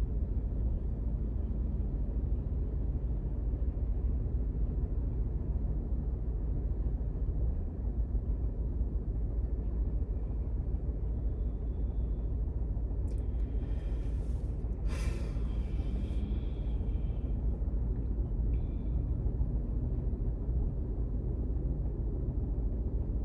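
Steady low rumble of a car's engine and road noise inside the cabin while driving, with a couple of brief rushing sounds about two-thirds of the way through.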